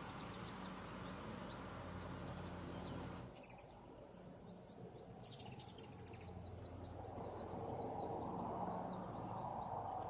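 A swarm of hummingbirds at a feeder, chirping with many short high squeaks, broken by two bursts of rapid chattering about three and five seconds in, over a steady low hum.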